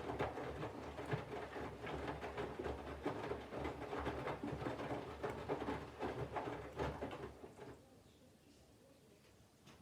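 Candy GVF4 front-loading washing machine in its main wash: the drum turns with a low motor hum, and wet laundry tumbles and water sloshes in irregular thuds and splashes. The drum stops for a short pause near the end, then starts turning again.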